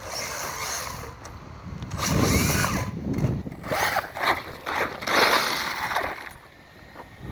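A 4S electric RC truggy's motor and tyres running in short, uneven bursts of throttle, driving on the rear wheels only because the front wheels are not being driven (a loose wheel on a stripped hex hub).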